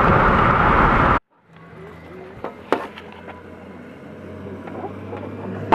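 Wind buffeting the microphone and road noise inside a moving car with its windows down, cut off abruptly about a second in. After that there is a much quieter low, steady hum with a few sharp clicks.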